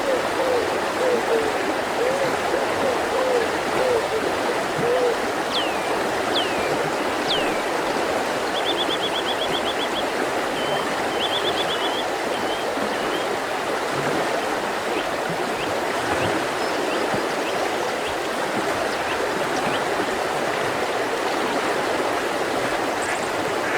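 Mountain river rushing steadily over stones, with small songbirds calling over it: a few quick downward-sweeping whistles, then two rapid high trills.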